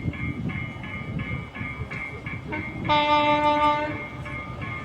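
A train passing with a low rumble while a warning bell dings about three times a second. About three seconds in, the train's horn sounds one steady blast lasting about a second.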